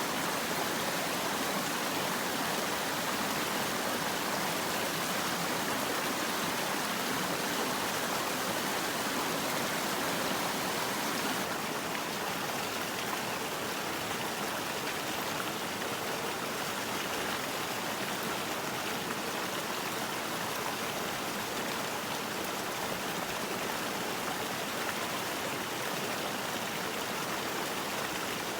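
Steady rush of running water, with a small step down in level about eleven and a half seconds in.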